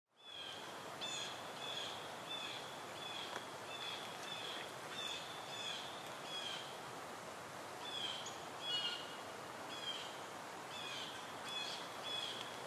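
Bird chirping over and over, short high chirps about two a second with a short pause midway, over a faint steady hiss of woodland ambience.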